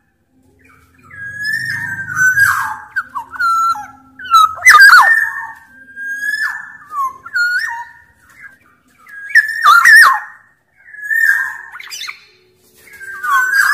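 Black-naped oriole (Sumbawa kepodang) singing: a series of short fluty whistled phrases near one pitch, some broken by harsher nasal notes, roughly one a second. The loudest calls come about five and ten seconds in.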